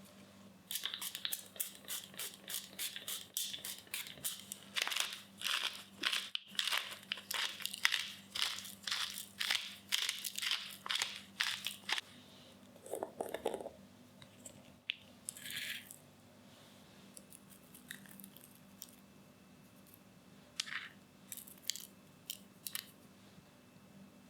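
Crusty home-baked loaf being cut, the crust crunching in quick strokes about three a second for some ten seconds, then a few scattered crackles.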